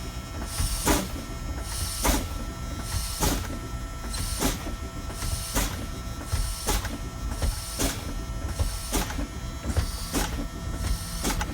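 Truck air brakes being pumped, a short hiss of exhausting air about once a second as the brake pedal is pressed and released, bleeding down the air tanks toward spring-brake activation. Under it runs the steady tone of the low-air-pressure warning buzzer.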